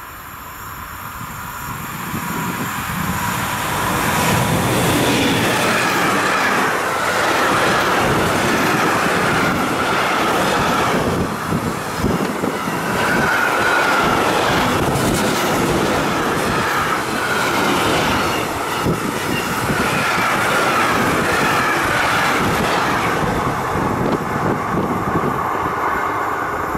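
A long freight train of container and tank-container wagons, hauled by a DB class 185 electric locomotive, passes at speed close by. It builds up over the first few seconds as it approaches, then holds a loud, steady rumble with a dense clatter of wheels and a wavering high ringing from the wheels and rails, and drops away just at the end as the last wagon passes.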